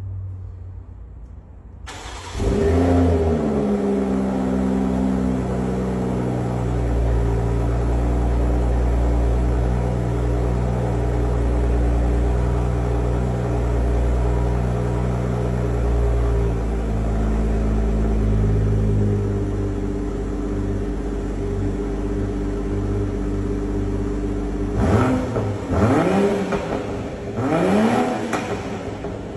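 BMW M340i's 3.0-litre turbocharged straight-six cranks and fires about two seconds in, flaring up on a cold start. It then settles into a steady fast cold idle. Near the end it is blipped several times in quick revs.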